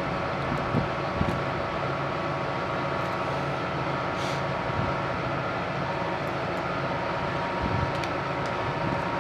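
Steady mechanical hum of a running engine or machine, with a constant whine held at an even level.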